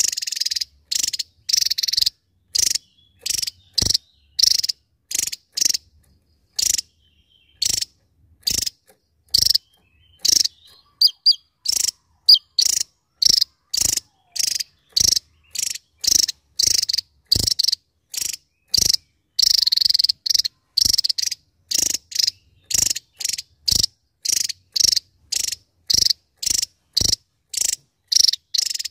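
Javan tesia song: a rapid series of short, high, sharp notes, about two a second, with a few brief pauses between runs.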